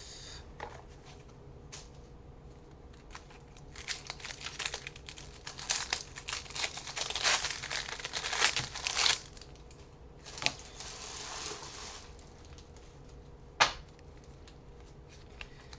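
A trading card pack wrapper being crinkled and torn open, with a long stretch of dense crackling from about four to nine seconds in, then a softer rustle and a few light taps as the cards are handled.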